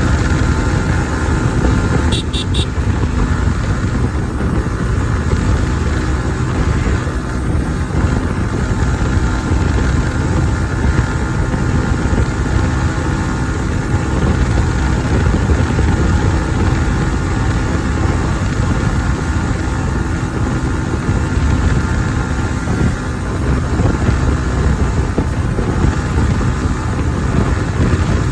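Kawasaki ZX-10R's inline-four engine with its stock exhaust, running steadily while the bike is ridden, with a heavy low rumble underneath.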